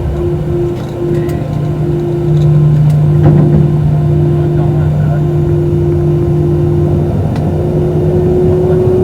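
Jet engines of an Airbus A320 heard from inside the cabin, running with two steady tones over a rumble. They grow louder about two seconds in as thrust comes up, and the higher tone creeps up in pitch near the end.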